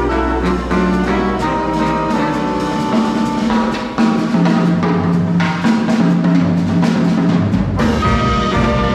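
Big band playing, with the brass section holding chords over a drum kit keeping time.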